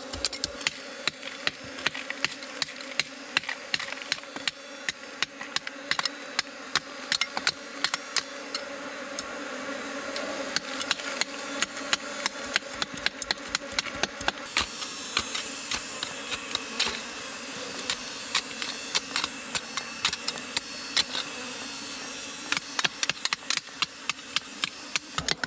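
Honeybees buzzing steadily, with many sharp irregular clicks and knocks over it. A high, steady whine joins about fifteen seconds in.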